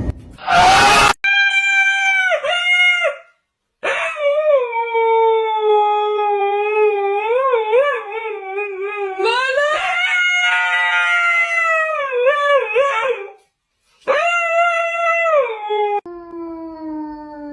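A dog howling in long, wavering howls with short breaks between them. The longest howl lasts about nine seconds, and the last one slides down in pitch. A brief harsh noise comes just before the first howl.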